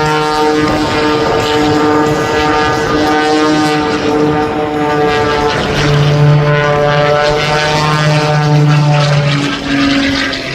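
Modified Pitts Special aerobatic biplane with a 400-horsepower Lycoming engine in flight: the engine and propeller drone steadily, the pitch shifting several times as the power changes.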